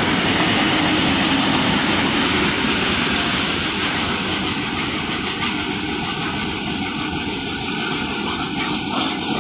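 Goods train of loaded, tarpaulin-covered open wagons rolling past at speed: a steady rumble and rattle of wheels on rail that grows slowly quieter over the second half, with a few sharp wheel clacks over rail joints near the end.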